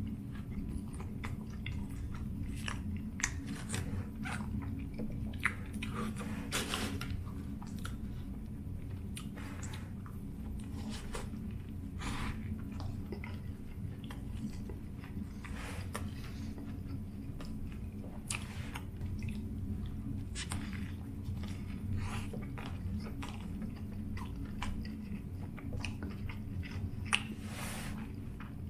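Close-miked chewing of a sausage sandwich on a toasted sesame seed bun, with bites and irregular sharp clicks and crunches, over a steady low hum.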